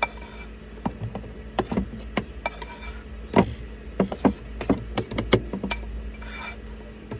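Cookware and utensils being handled: scattered light knocks and clicks, irregular, over a steady low hum, with a short hiss near the end.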